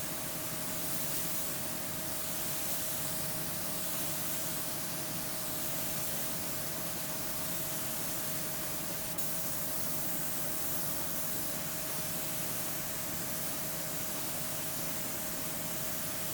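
Air spray gun hissing steadily as it lays down a light, loose mist coat of automotive paint, the hiss gently swelling and easing with the passes. A steady faint tone runs underneath.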